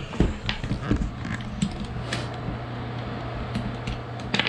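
Scattered light knocks and clicks of handling during floor work, densest in the first second, over a steady low mechanical hum.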